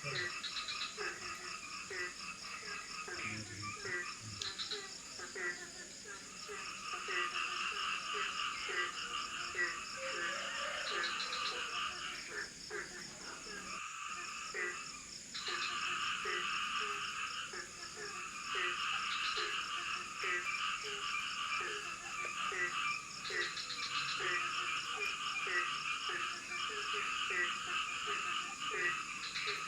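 Night chorus of tropical forest frogs: a low note repeated about twice a second under a dense, pulsing higher-pitched chorus that swells about seven seconds in and briefly dips halfway through, over a steady high-pitched buzz.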